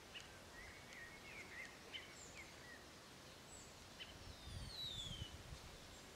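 Faint birdsong: scattered short chirps and a few thin descending whistles. A brief low rumble comes in about two thirds of the way through.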